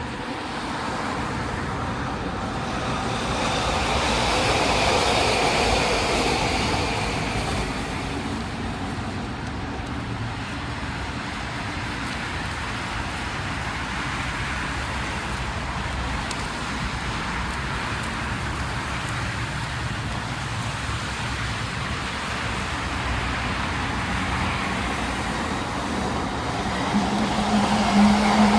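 Two Bombardier Innovia ART 200 Mark II SkyTrains, driven by linear induction motors, running through the station: one arriving and one departing. The sound swells about five seconds in, then runs on as a steady rumble, and a steady low hum joins near the end.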